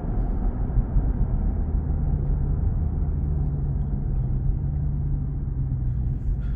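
Chrysler 300C's 6.4-litre HEMI V8 running at a steady cruise, a low even hum from its exhaust with road noise under it. The exhaust still has its mufflers in place and is fairly subdued.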